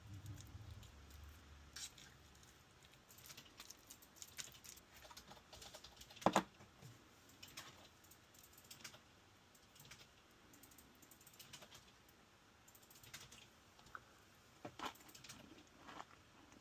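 Quiet eating and food-handling noises: scattered light clicks and taps, with a sharper knock about six seconds in and another near fifteen seconds.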